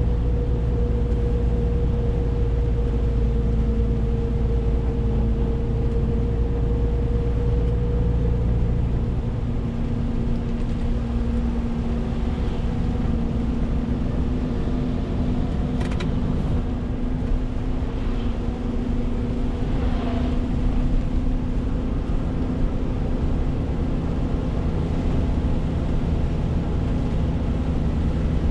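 Renault T520 truck's 13-litre six-cylinder diesel engine running under way with road noise, a steady drone whose note drops and changes about a third of the way in.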